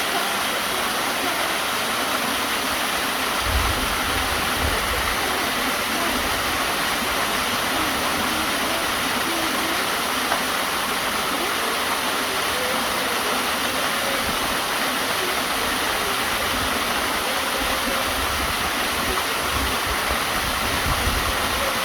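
Steady rushing of a waterfall, with a few low rumbles about four seconds in and again near the end.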